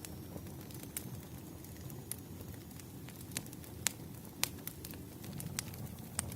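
Bonfire crackling: a steady low rumble of burning with sharp pops of wood every second or so, the loudest near the middle.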